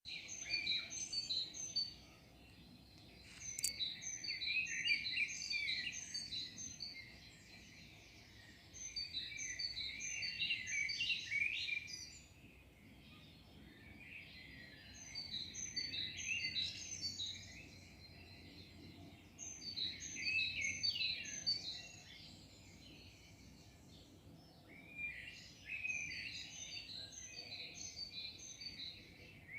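A songbird singing in repeated phrases, each two to four seconds long of quick, high chirping notes, separated by short pauses of a couple of seconds, over a faint steady background hum.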